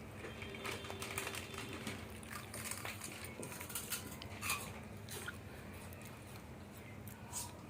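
Faint, scattered clicks and crackles of a small child eating a snack, with a few slightly louder snaps.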